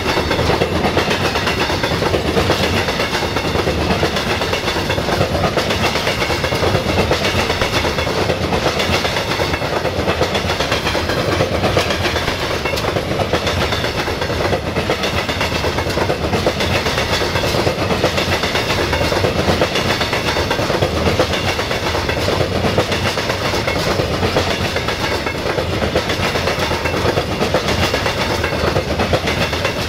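A long freight train of sliding-wall wagons rolling past at an even, loud level, its steel wheels running and clicking over the rails.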